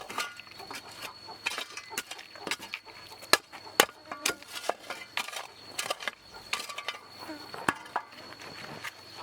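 Irregular sharp knocks and clicks of wooden planks being handled and knocked into place, over a steady high-pitched insect drone.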